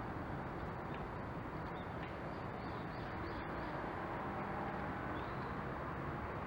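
Steady outdoor background rumble, with a few faint, short, high bird chirps in the middle.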